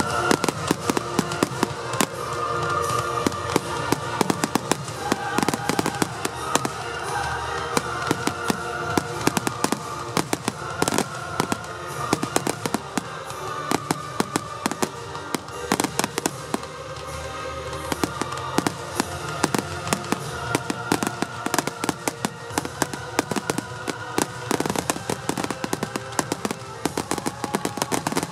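Fireworks grand finale: a dense barrage of bangs and crackles, several a second, with music playing underneath.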